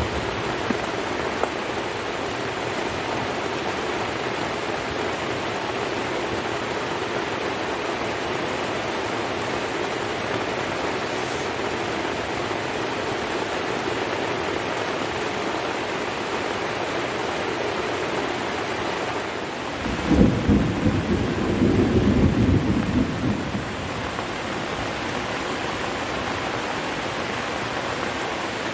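Heavy rain falling steadily, with one low rumble of thunder lasting a few seconds a little after two-thirds of the way through.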